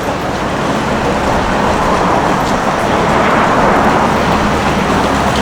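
Street traffic: a passing vehicle's noise swells to a peak a little past halfway and then eases off.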